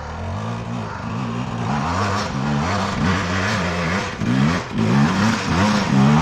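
Two-stroke dirt bike engine revving hard under load on a steep hill climb, its pitch rising and falling again and again as the throttle is worked on and off.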